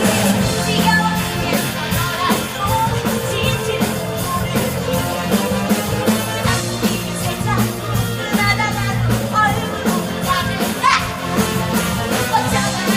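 Band music for a stage musical number, with a steady drum beat and a singing voice over it.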